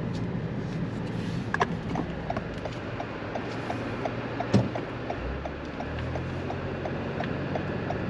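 A car's turn signal clicking steadily, about three clicks a second, over the engine and road rumble inside the moving car, with a couple of sharper knocks.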